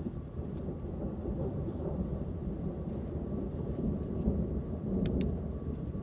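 Rolling thunder rumbling under steady rain, the rumble swelling a little past the middle. Two brief sharp ticks come about five seconds in.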